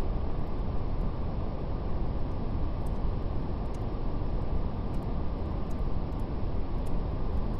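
Steady brown noise, a deep, even rushing hiss heaviest in the low end, with faint, irregular crackles of a fire scattered through it.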